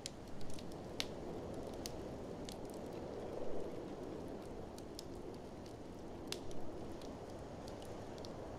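Wood fire crackling, with scattered sharp pops, over a steady low rush of blizzard wind that swells a little a few times.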